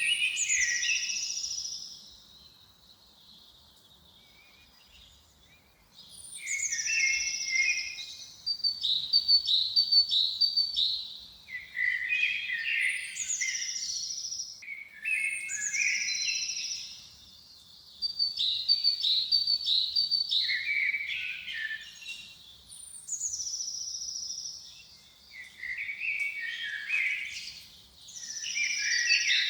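A songbird sings the same phrase over and over, about six times, after a short lull near the start. Each phrase opens with a high falling sweep into a brief trill, then runs through a series of quick notes that step lower in pitch.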